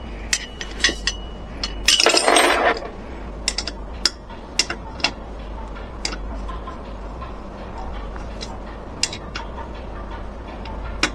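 Irregular light clinks and clicks of small hard objects being handled, with a short scraping rustle about two seconds in.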